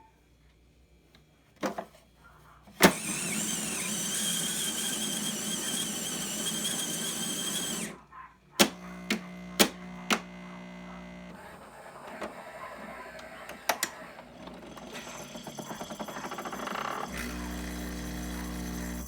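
Saeco Vienna coffee machine running through a cycle: a switch clicks, then a motor whirs steadily for about five seconds and stops abruptly. A few sharp clicks follow, then a steady buzzing hum that grows stronger near the end.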